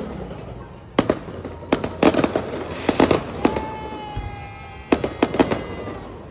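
Fireworks going off in clusters of sharp cracks and bangs, with a long whistle that falls slightly in pitch partway through.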